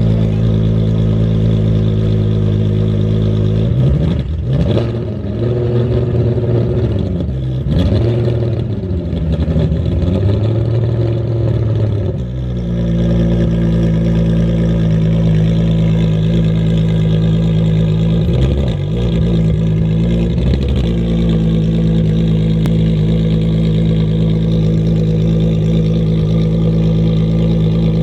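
Ferrari 599XX's V12 engine idling after its cold start, blipped several times between about four and twelve seconds in, and again briefly around nineteen to twenty-one seconds.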